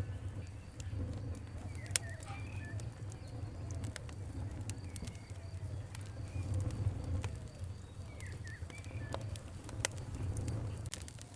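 Wood fire crackling, with irregular sharp pops scattered over a low steady rumble; two louder pops come about 2 s and 10 s in. Faint bird calls sound behind it.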